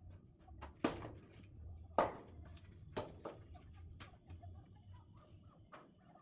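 Split oak firewood logs knocking together as they are stacked: three sharp clunks about a second apart, with lighter knocks and clatter between them.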